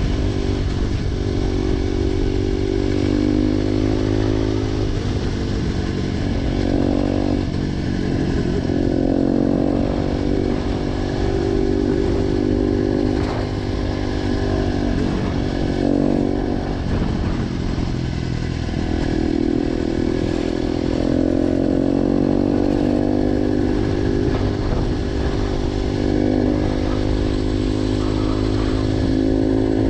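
Motorcycle engine with an aftermarket GPR exhaust, running under way, its pitch climbing and falling back several times.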